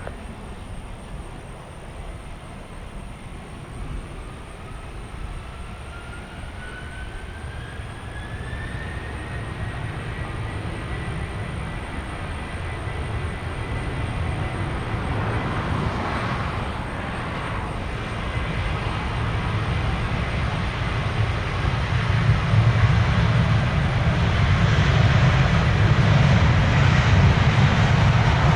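Airliner jet engines spooling up to takeoff thrust: a whine rising in pitch over several seconds, then holding steady, over a rumble that grows steadily louder.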